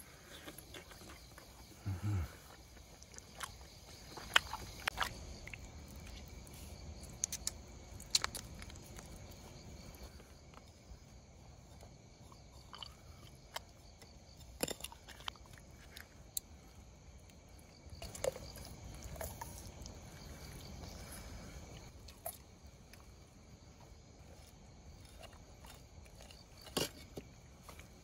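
A person eating: chewing and crunching, with scattered sharp clicks and taps throughout.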